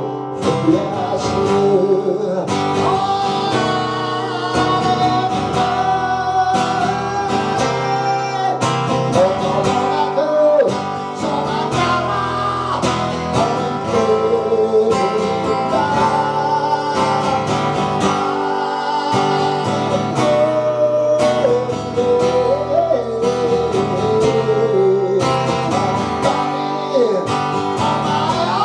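A song performed live on strummed acoustic guitar, with a melody line weaving over the chords.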